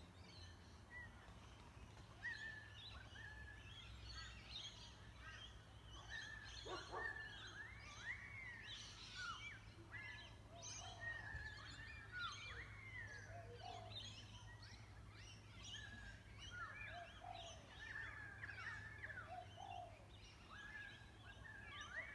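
A faint, distant chorus of unidentified birds: many overlapping whistled calls that glide up and down in pitch, over a steady low hum.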